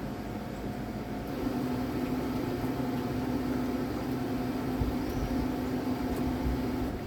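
Steady hum of an electric boat motor running, a low, even tone over low rumbling noise; the tone dips briefly about half a second in and then holds.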